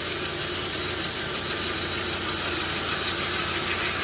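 An engine running steadily at idle, a low, even hum with a hiss on top and no change in speed.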